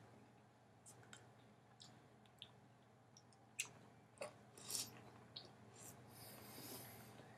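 Faint sounds of eating peaches from a jar with a fork: scattered soft clicks, a few sharper ones in the middle, and a short noisy stretch near the end.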